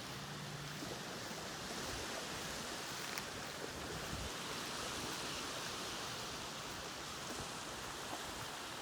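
Steady rush of moving water where a creek runs out into Lake Ontario, an even noise with no breaks.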